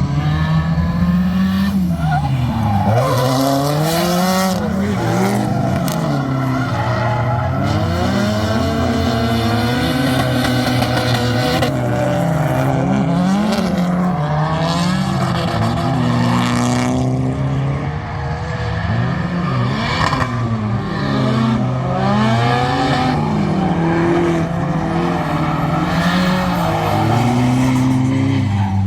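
Nissan Silvia S15 drift car's SR20 turbocharged four-cylinder engine, built to about 500 hp, revving up and down again and again as it is driven hard in a drift, with tyres squealing.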